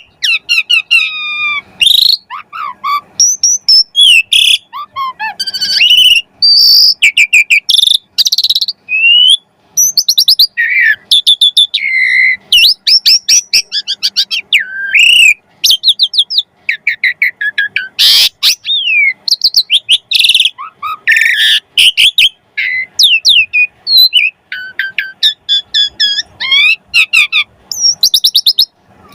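Asian pied starling (jalak suren) in full song: a loud, fast, unbroken run of varied whistles, sliding notes, rapid chattering trills and harsh strokes, packed with borrowed phrases (isian).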